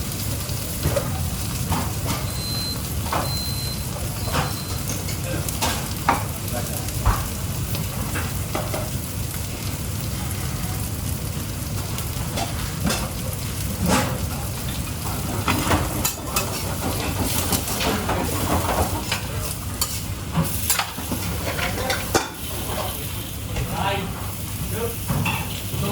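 Food sizzling in a frying pan, with utensils clicking and scraping against the pan, over a steady low hum. Three short high beeps sound a few seconds in.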